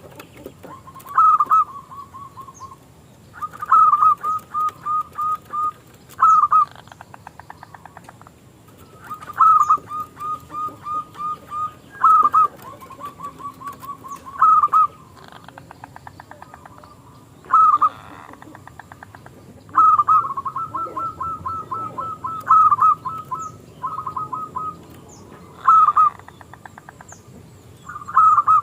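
Zebra dove (perkutut) singing its cooing song: phrase after phrase, each a loud opening note followed by a quick run of shorter, softer notes, coming about every two and a half seconds.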